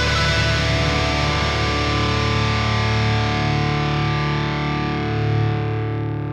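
Music: a distorted electric guitar chord held and ringing, its brightness dying away as it begins to fade out.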